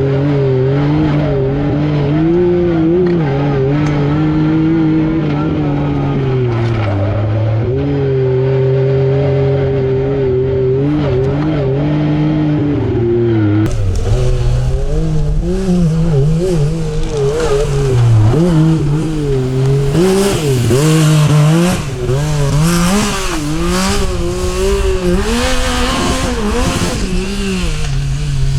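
Yamaha YXZ1000R SS side-by-side's three-cylinder engine under hard driving, its pitch climbing and dropping again and again through the gears. About halfway through the sound turns rougher, with heavy rumble and wind noise over quicker rises and falls of the revs.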